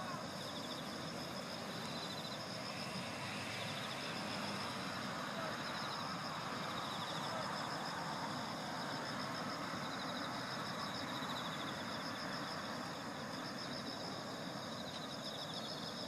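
Insects trilling in fast pulsing high-pitched trains that come and go, over a steady background rush.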